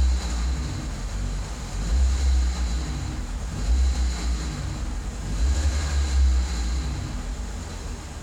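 VW Scirocco 1.4 TSI 160 engine running with the odd noise its owner calls weird, heard after 400 km. A low rumble swells and fades roughly every two seconds, with a hiss rising at each swell, and eases off near the end.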